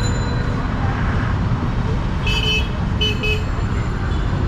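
Busy street traffic: a steady rumble of engines and road noise, with two short, high-pitched horn toots a little past the middle.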